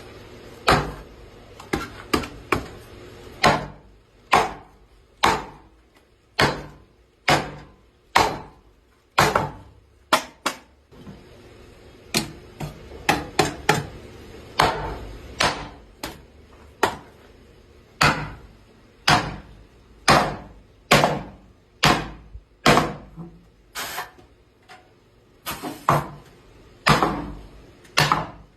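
Hammer blows on wood in wooden chair making: a long series of sharp strikes, mostly about one a second, with some quick runs of two or three.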